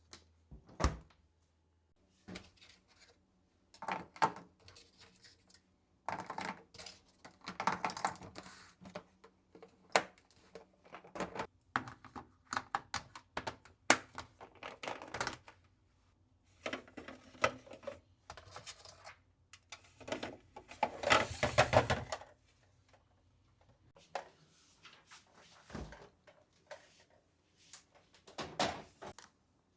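Groceries and containers being handled in a small room: irregular clicks, knocks and rustling of packaging, with a longer rustle about 21 seconds in.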